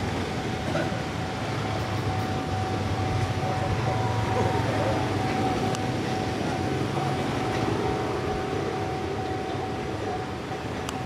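Passenger train coaches rolling away along the track: a steady rumble with a thin, steady whine above it.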